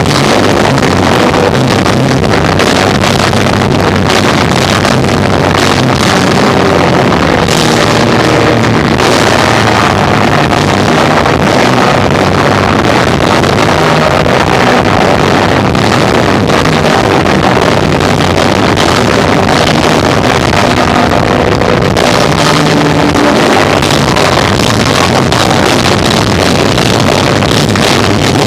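A live rock trio of electric guitar, bass and drums playing loud, recorded so overloaded that the instruments blur into a constant distorted roar.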